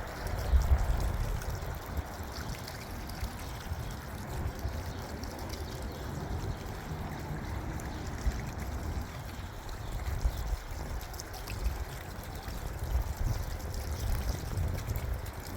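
Strong gusting wind buffeting the microphone, with an uneven low rumble that swells and drops, loudest about a second in.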